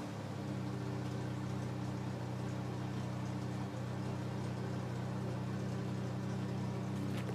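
1992 Ford Ranger's engine idling steadily, heard through its exhaust with the pipe end shortened inside the exhaust tip.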